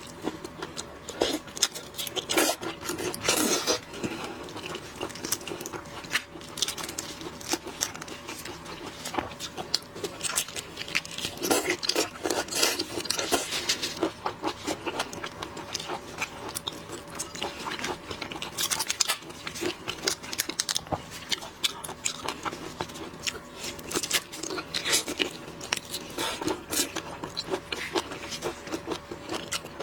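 Close-miked eating of shrimp: shells cracking and being peeled, and mouthfuls chewed, as a dense, irregular run of crackles, clicks and wet smacks.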